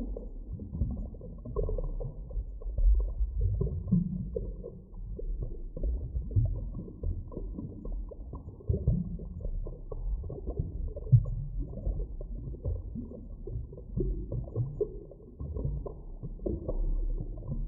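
Muffled underwater ambience: a low, irregular rumble with small uneven swells and knocks, nothing above a low muffled range.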